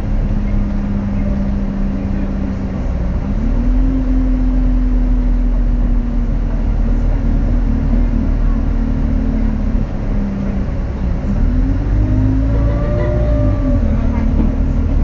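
Alexander Dennis Enviro200 bus engine running under way, heard on board, with a heavy low rumble and a steady whine that dips and climbs back up twice. The title calls it a weird turbo whistle.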